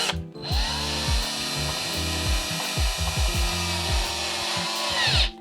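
Electric drill-driver running for about five seconds while driving screws, its whine rising as it spins up just after the start and falling as it winds down near the end.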